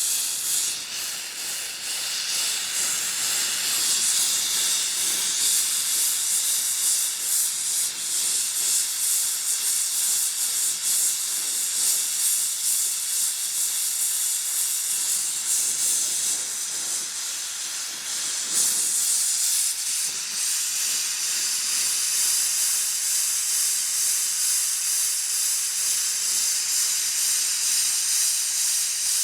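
Ambro Precision oxygen–MAPP brazing torch flame hissing steadily while heating a 1-1/8 inch copper pipe joint.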